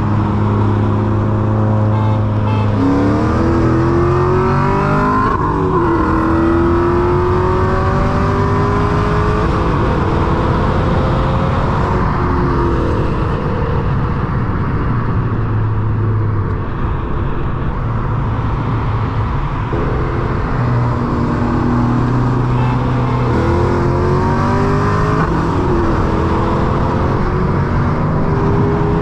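Mk7 Golf GTI's turbocharged 2.0-litre four-cylinder, fitted with an IS38 turbo, accelerating hard at full throttle from inside the cabin. The engine note climbs in pitch through each gear and drops at each upshift, with a spell of steadier running midway before it pulls up through the gears again.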